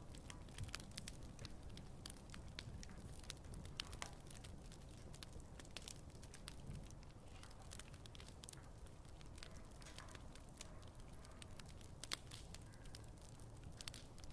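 Wood fire burning quietly, with scattered small crackles and a few sharper pops over a low, steady rumble of the flames.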